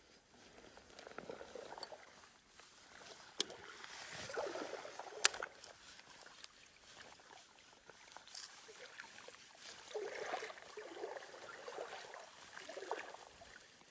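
Water swishing and sloshing in uneven surges, as of legs wading through a stream current, with two sharp clicks about three and a half and five seconds in.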